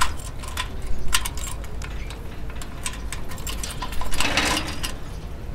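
Foley of a bunch of keys jingling and clicking against a metal gate lock: quick, irregular metallic clicks that ring briefly. There is a louder scraping rush a little after four seconds in, over a steady low rumble.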